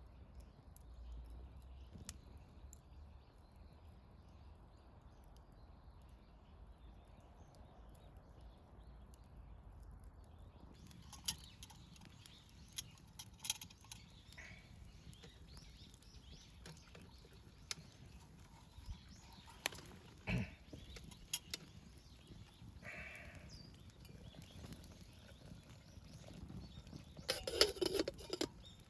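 A wood fire crackling in a Swedish torch, a slit log burning from the inside: scattered sharp crackles and pops over a faint outdoor background, coming more often after about ten seconds, with a louder burst of crackles near the end.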